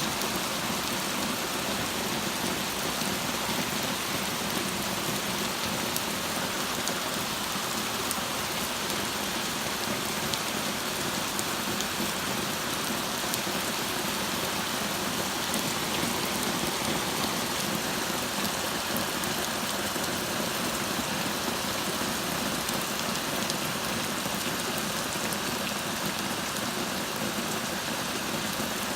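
Torrential rain pouring down steadily as a dense, even hiss, with scattered faint ticks of drops striking surfaces.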